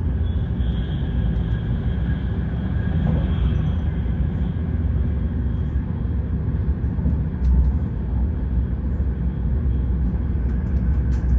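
Steady low rumble of an ETR 500 high-speed train heard from inside a passenger coach as it runs along the track, with a faint high whine in the first few seconds.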